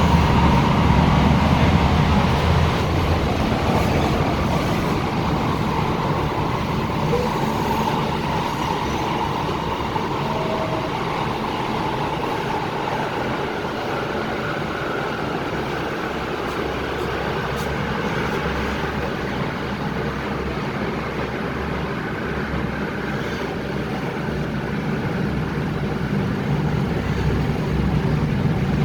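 MTR Tung Chung Line K-Train running at speed, a steady rumble of wheels on rail and running gear that eases a little in the middle and builds again near the end, with a faint high whine through the middle.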